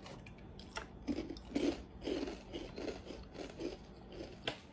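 Crunchy chewing of a puffed wheat-and-rice snack, with sharp crackles and chewing strokes about twice a second.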